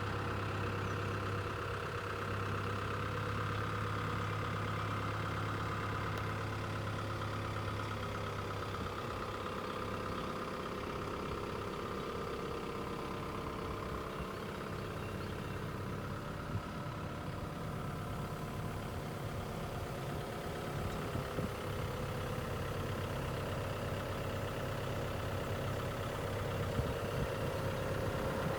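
Caterpillar 305.5 mini excavator's diesel engine running steadily at a constant speed, with a few light knocks in the second half.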